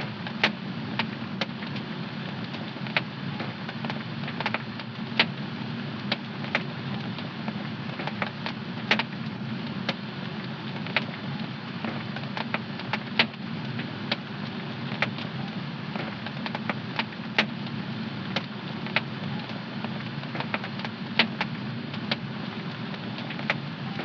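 Wood fire in a home fireplace crackling, with irregular sharp pops every half second or so over a steady low rush of the burning fire.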